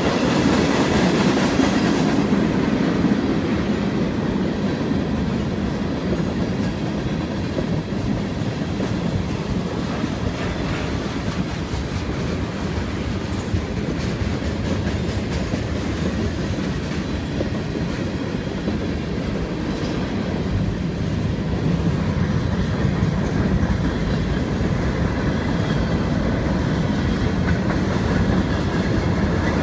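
Freight train cars, tank cars and covered hoppers, rolling past a grade crossing: a steady rumble of wheels on the rails throughout.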